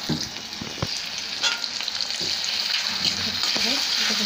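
Chopped tomato, onion and green chilli sizzling in hot oil in a kadai, stirred with a metal spatula that clicks against the pan a few times. The sizzle grows louder toward the end.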